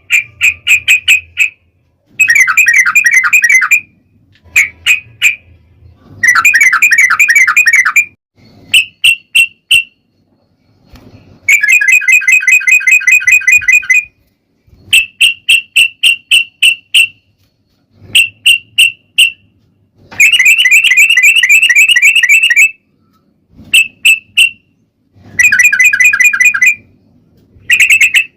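Yellow-vented bulbul (trucukan) singing loud, bubbly phrases, the fast rolling 'ropel' song used as a lure to make other trucukan sing. Rapid trilled runs of one to two seconds alternate with short bursts of a few quick notes, each separated by a brief pause.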